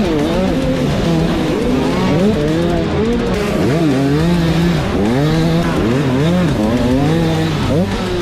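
Several motocross dirt bikes racing, their engines revving up and falling off again and again as the riders work the throttle, with the sounds overlapping.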